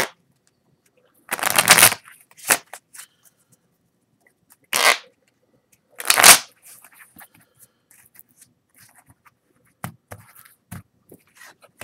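A deck of playing cards being gathered and shuffled: about four short bursts of riffling, with light card handling and clicks between them.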